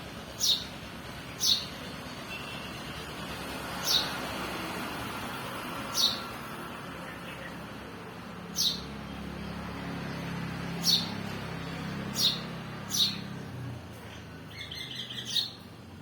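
A bird chirping: short, sharp, falling chirps, about nine of them at irregular gaps, with a brief twittering run of notes near the end.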